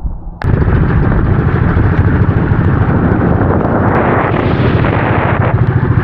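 A small boat's engine running loudly under way, with a dense low rumble. It cuts in suddenly near the start.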